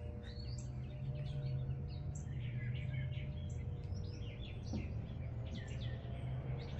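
Small birds chirping and twittering in quick, scattered calls over a steady low hum.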